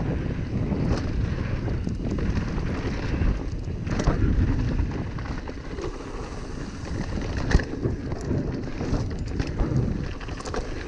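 Wind buffeting an action camera's microphone over the rumble and rattle of a mountain bike riding a dirt trail, with a few sharp knocks, the loudest about four seconds in.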